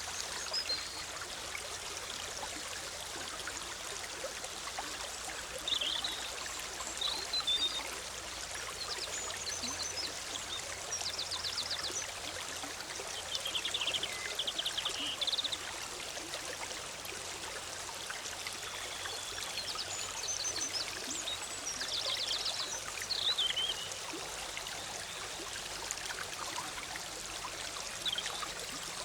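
Bubbling forest stream flowing steadily, with forest birds chirping and giving short rapid trills now and then over the water.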